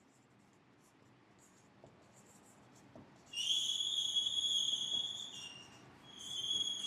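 Writing on a board: a long, high, steady squeak of the writing tip, then a second shorter one near the end, with a few faint taps before them, as a number is written out.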